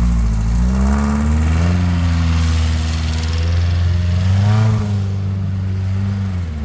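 Dune buggy's 1600cc Volkswagen air-cooled flat-four engine revving up and down under throttle. The pitch climbs about a second in and again around four and a half seconds, then drops near the end.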